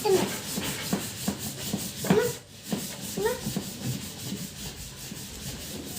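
Scrubbing and rubbing on a plastic toy car, a steady scratchy rubbing made of many short strokes, with a few brief squeaks.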